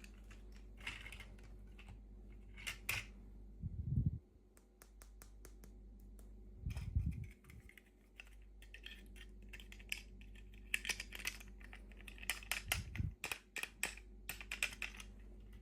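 Small plastic packaging and toy pieces being handled and unwrapped: scattered light clicks and taps with bouts of crinkling, and a few dull bumps against the table, about 4, 7 and 13 seconds in.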